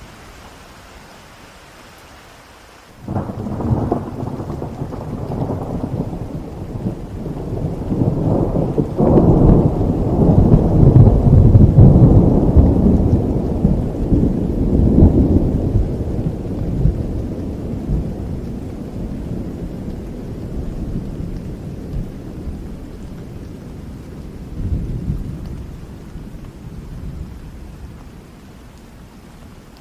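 Steady rain falling, then about three seconds in a long peal of thunder breaks in suddenly and rumbles in several waves. It is loudest about ten seconds in and slowly dies away near the end while the rain goes on.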